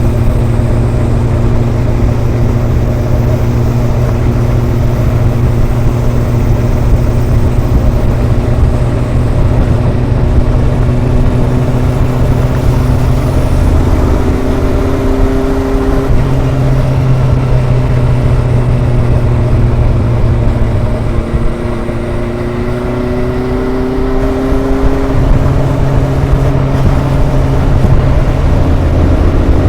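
Kawasaki ZRX inline four-cylinder engine and exhaust running under way. The pitch shifts up and down a few times, and after a short drop in level about two-thirds through it rises steadily as the bike accelerates.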